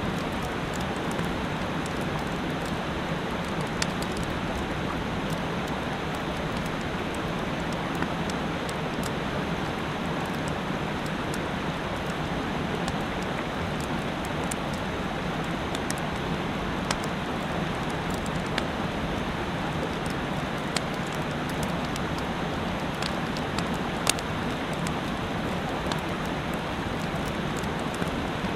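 Steady rushing of a mountain stream, with scattered faint sharp ticks.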